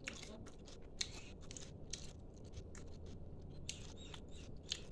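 Close-up eating sounds: chewing and crunching with irregular sharp clicks and smacks, over a steady low hum.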